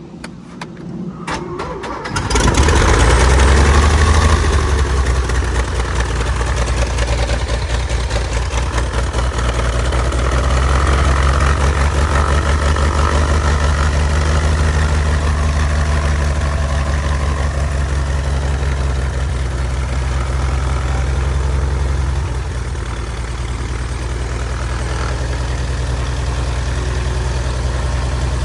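1948 Cessna 170's Continental C-145 air-cooled flat-six engine cranked by the starter for about two seconds, then catching and running steadily with the propeller turning, on its first start after sitting. The sound drops a little about 22 seconds in.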